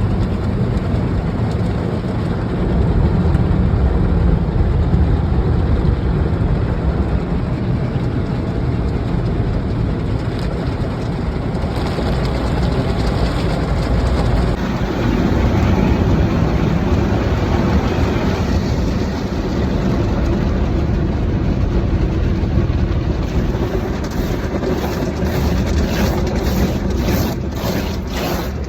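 Steady, loud rushing noise. From about three-quarters of the way in, rhythmic strokes come in at roughly one and a half a second.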